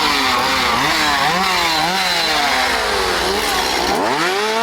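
A chainsaw engine revved up and down again and again, its pitch swinging in quick repeated surges, with a deeper drop about four seconds in before it picks up again.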